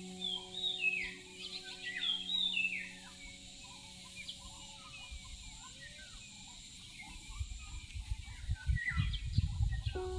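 Wild birds calling: several quick descending chirps in the first few seconds, then scattered softer calls. Near the end a low rumbling buffeting comes in underneath.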